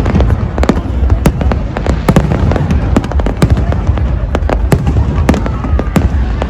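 Fireworks display: a rapid, irregular string of sharp bangs, several a second, over a continuous low rumble of booms.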